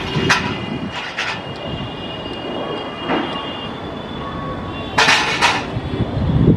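Pairs of sharp metallic clacks over a steady rumble, with a faint high squeal held underneath; a heavy, mechanical rolling sound.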